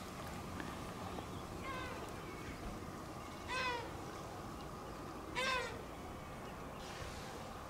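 A bird calls twice, about two seconds apart. Each call is clear and drawn out and drops in pitch at the end, and there is a fainter call a little earlier.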